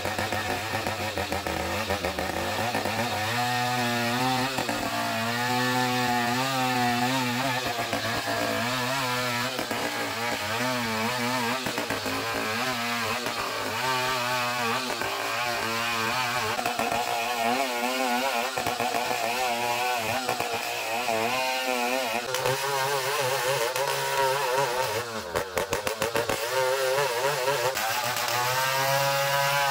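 Chainsaw engine running under load as it cuts through a log of ulin (Borneo ironwood), its pitch wavering up and down as the cut bites. It drops off briefly near the end, then comes back up to speed.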